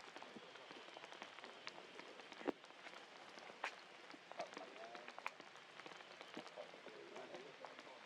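Faint rain falling, with scattered drops clicking sharply on nearby surfaces; one drop strikes louder about two and a half seconds in.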